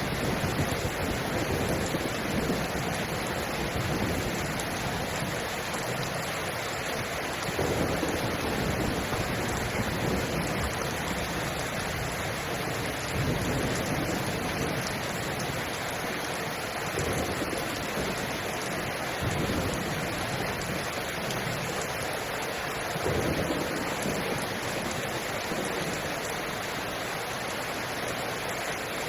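Steady rainfall, an even hiss, with a low swell rising and falling every few seconds.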